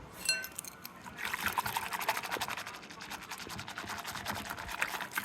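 Water running and trickling into a container, with a crackly spatter that starts about a second in, after a brief high-pitched tone at the start.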